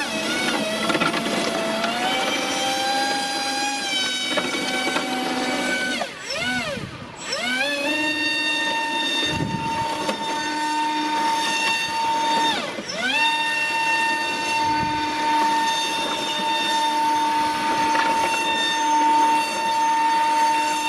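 Brushless electric motor and propeller of an RC airboat running with a steady high whine. The pitch drops and climbs back as the throttle is eased off and reopened, about six seconds in and again about seven seconds later.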